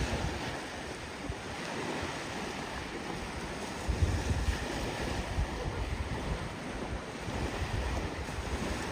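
Wind buffeting the microphone over the wash of surf on a beach, the low rumble of the gusts swelling about four seconds in.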